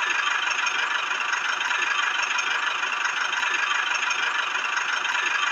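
A small motor running steadily with an even, high-pitched whir.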